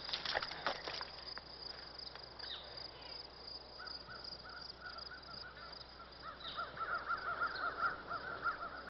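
Bird calls, with a quick run of short, repeated calls building in the second half over a steady high outdoor hiss.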